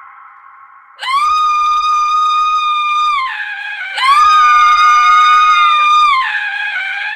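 A woman screaming: long, high-pitched shrieks held on a steady pitch, the first starting about a second in, the second a few seconds later, and a third beginning near the end, each dropping in pitch as it trails off.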